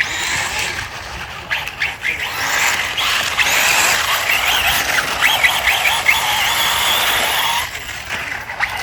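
Radio-controlled truck running, its small electric motor whining and wavering in pitch over a steady hiss of tyres on the ground; it eases off near the end.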